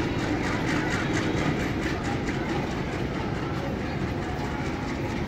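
Passenger train coaches rolling along the track, their wheels clattering steadily over the rail joints in a continuous rumble.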